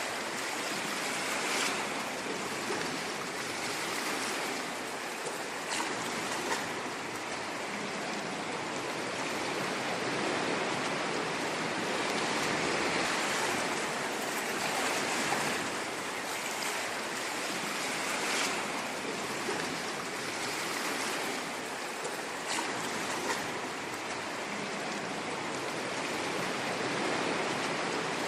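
Ocean waves washing on a shore: a continuous rush of surf that swells and eases gently, with a few brief crackling splashes.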